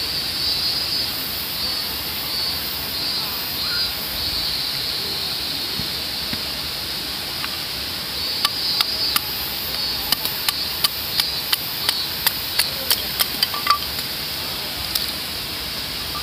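A quick series of sharp clicks or strikes, about three a second, for roughly five seconds over a steady rushing noise.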